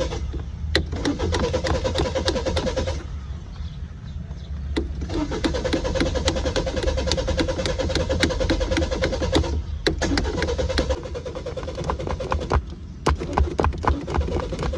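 A car's starter motor cranking the engine in three long bursts with short pauses between them, whining and pulsing without the engine catching: a hard start, the car won't start. Sharp taps sound throughout.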